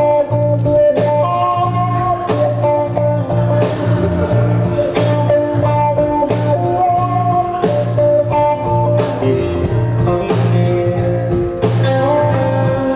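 Instrumental band music: a guitar and melody line over a held bass, with a steady beat of regular percussive hits.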